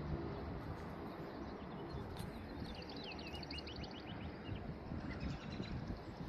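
A songbird chirping, a rapid series of short high notes about midway, over steady low background noise.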